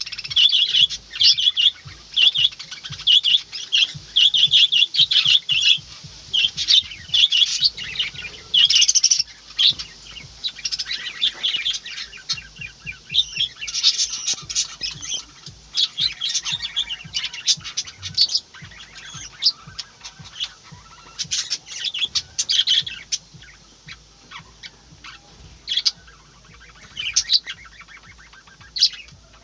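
A large flock of house sparrows chirping together in a tree: a dense, overlapping chatter of short, high chirps that thins out in the second half.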